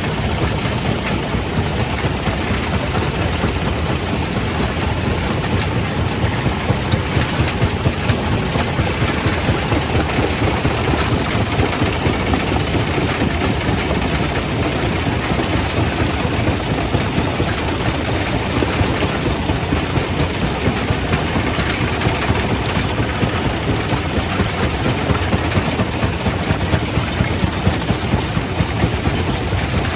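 Quarry primary rock crusher running and crushing stone: a steady heavy mechanical drone with frequent irregular knocks.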